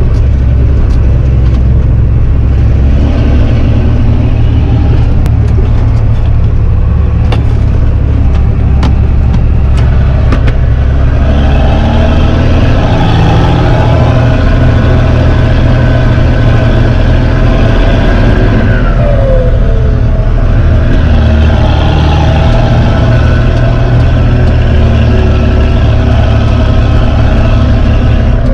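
Fendt 926 Favorit Vario tractor's six-cylinder diesel running loud through an open exhaust pipe, heard from inside the cab. A steady heavy rumble runs throughout, and a higher whine comes in and out from about the middle on.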